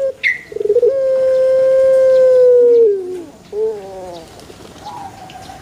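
Puter pelung dove (Streptopelia risoria) cooing: a short stuttering note, then one long, steady coo of about two seconds that drops in pitch at its end, followed by a shorter falling coo.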